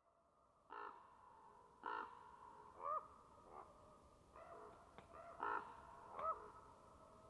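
Birds calling in the wild: a series of short calls, roughly one a second, several of them rising and falling in pitch.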